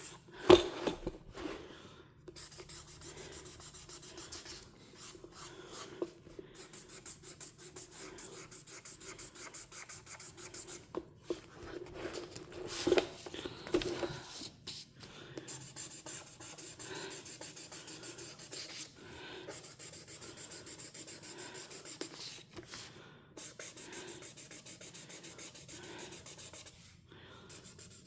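Coloring on a coloring-book page: a coloring tool rubbing and scratching across the paper in quick, even back-and-forth strokes, several a second. A sharp thump about half a second in, and a few louder knocks in the middle.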